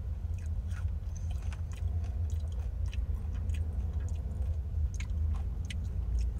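A person chewing a spoonful of chili crunch oil close to the microphone, with small wet clicks and smacks scattered throughout, over a steady low hum.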